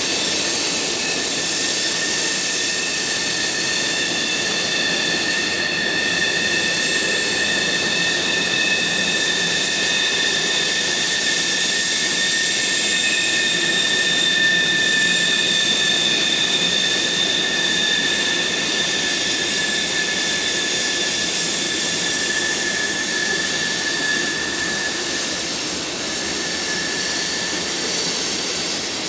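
Freight train cars rolling over a stone arch railroad viaduct: steady noise of steel wheels on the rails with a continuous high-pitched wheel squeal of several held tones, which fades near the end.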